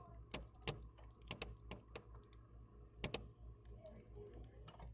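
Faint, irregular light clicks and taps, about a dozen, with a louder pair about three seconds in.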